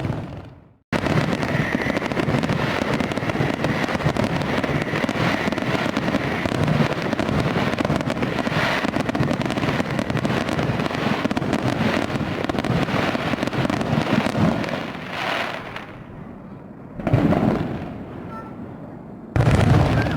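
Fireworks display: a dense, continuous run of crackling and popping bursts that thins out about three quarters of the way through, followed by two louder bursts near the end.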